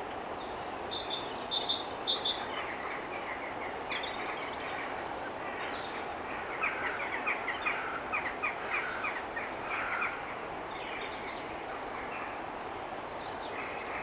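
Small birds calling over a steady background hiss: a few quick high chirps about one to two seconds in, then a run of rapid repeated notes from about six and a half to ten seconds in.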